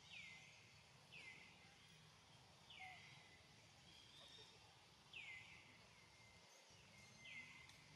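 Faint forest ambience with a bird repeating a short, downward-sweeping whistled call five times, about every one and a half seconds, with fainter bird notes behind it.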